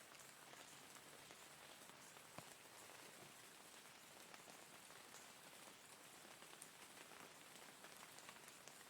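Faint, steady rain: an even hiss of falling rain with many individual drops ticking on a surface.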